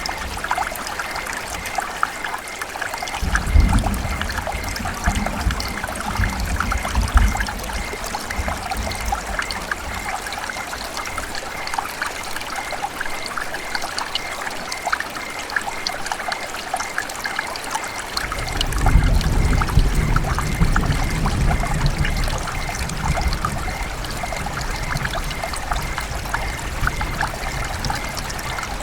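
River water running and trickling steadily, with a fine crackle throughout. Twice a deeper low rumble swells in for a few seconds.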